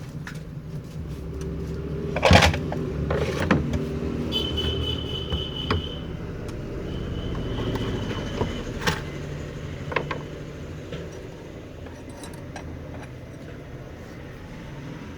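Scattered metal clicks and knocks of a ceiling fan being handled and taken apart, the loudest about two seconds in, over a steady low rumble that swells and then eases off after the middle.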